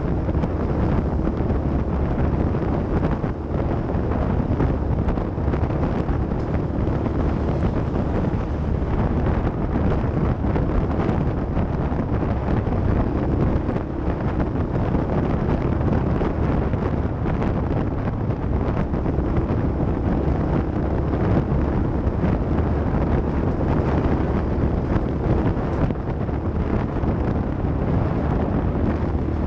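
Off-road vehicle engine running steadily while driving, with heavy wind buffeting on the microphone.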